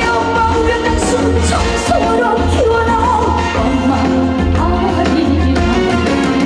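A woman singing a Korean trot song live, her voice sliding between notes, over loud band accompaniment with a heavy bass.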